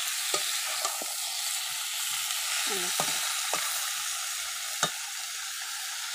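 Potol (pointed gourd) and potato pieces sizzling steadily as they fry in oil in a metal kadai. A spatula stirs them, scraping and knocking against the pan a handful of times; the sharpest knock comes near the end.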